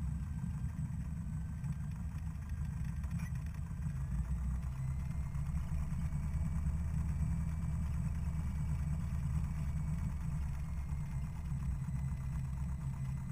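Single-engine Cessna's piston engine running at low power with the propeller turning, a steady low drone as the plane rolls out and taxis after landing. The drone picks up slightly about four seconds in.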